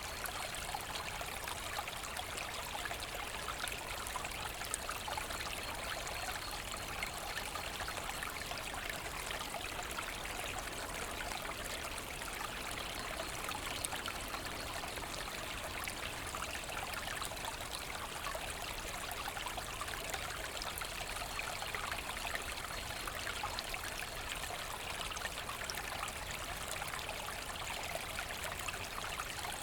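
Forest stream running steadily, water babbling and trickling over stones.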